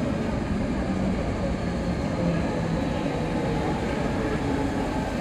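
MTR Kwun Tong Line train pulling away into the tunnel, a steady rumble of wheels on the track.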